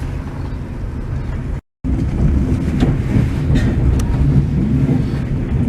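Steady low rumble of a moving vehicle, broken by a brief dead-silent gap at an edit cut about one and a half seconds in.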